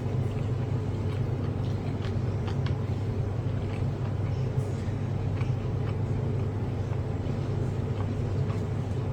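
Steady low hum throughout, with faint scattered clicks and smacks of someone eating.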